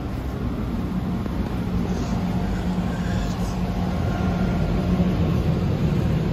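Fujikyuko Line train car running, heard from inside the cabin: a steady low rumble that grows gradually louder.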